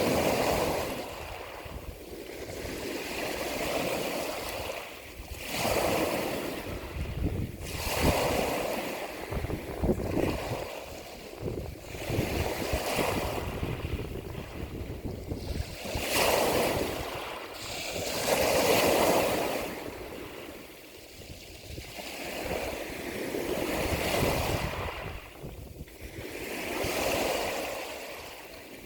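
Ocean waves breaking and washing onto a shore in repeated swells, each surge of surf rising and falling over a few seconds.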